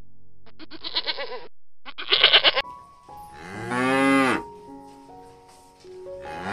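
Goats bleating twice in the first couple of seconds, each call quavering. Then a water buffalo lowing: one long moo about 3 to 4 seconds in and another starting near the end, over soft background music.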